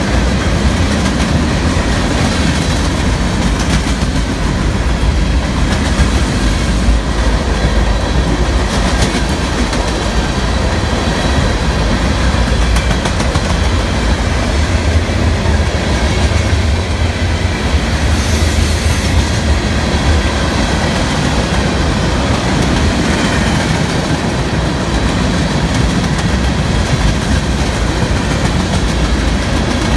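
Freight train of tank cars and covered hoppers rolling past close by: a steady heavy rumble of steel wheels on rail, with repeated clicks as the wheels cross rail joints.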